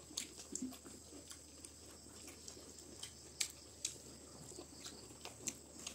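Eating sounds: irregular wet clicks and smacks of chewing and lips as two people eat rice and curry with their hands, over a faint steady hiss.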